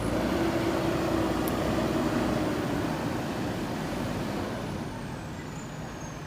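JCB backhoe loader's diesel engine working under load. It grows louder at the start, its pitch sinks slowly, and it eases off about five seconds in.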